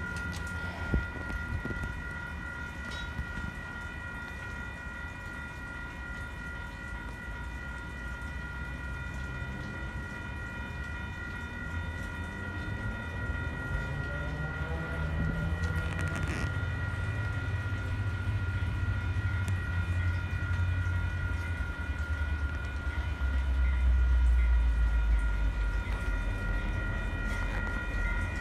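A diesel commuter train approaching along the track, its low engine rumble building through the second half and loudest near the end, over a steady high-pitched ringing tone.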